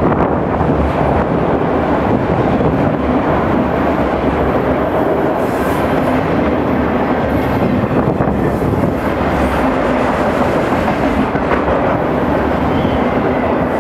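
Enclosed autorack freight cars rolling past close by: a steady, loud rumble of steel wheels on rail with the clatter of the car bodies.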